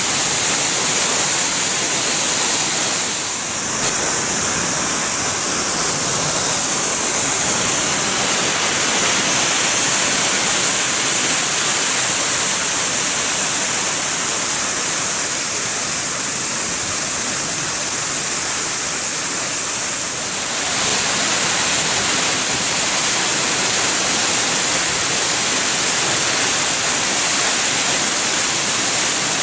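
Onogawa Fudo Falls, a waterfall, with water pouring down and splashing into its pool as a steady, loud rush.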